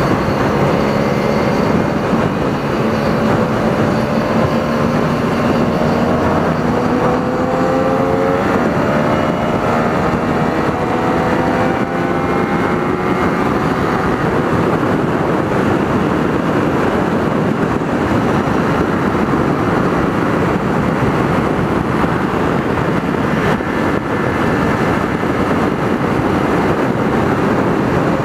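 Kawasaki Ninja 300 parallel-twin engine pulling on the road, its pitch climbing slowly over the first ten seconds or so. After that, a steady rush of wind noise at speed covers most of the engine sound.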